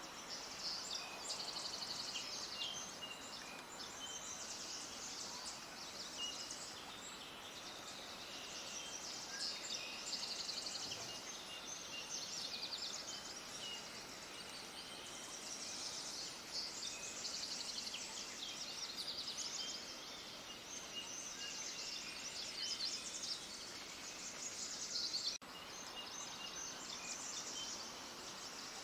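Many small birds chirping and twittering together: a dense, continuous chorus of high, rapid chirps and trills over a faint hiss, broken once by a sudden brief gap near the end.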